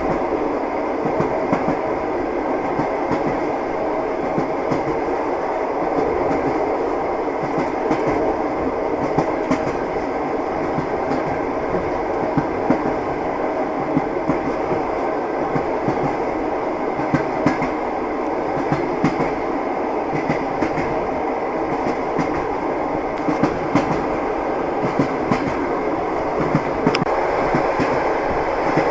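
A moving train: the steady rumble of the carriage, with its wheels clacking over the rail joints in frequent short clicks.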